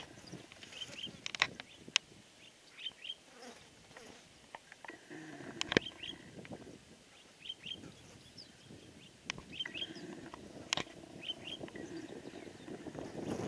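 Wild birds chirping in short, repeated pairs of high notes, with several sharp snaps scattered through.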